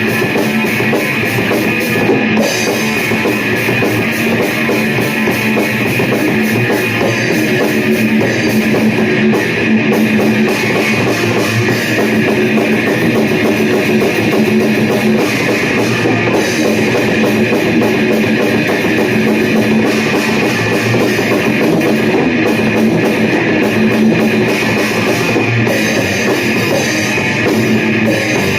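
Loud rock music with electric guitars and a drum kit playing continuously in a dense, heavy mix.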